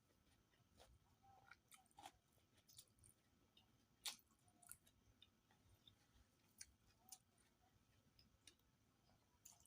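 A person eating rice with fish curry: faint, irregular chewing, with soft wet mouth clicks and smacks scattered every half second or so.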